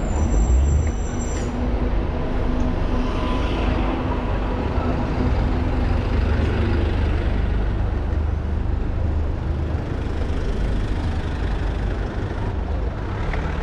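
Street traffic heard from a moving bicycle: a steady low rumble of wind and road noise, with the engines of passing vehicles. A brief high squeal sounds in the first second and a half.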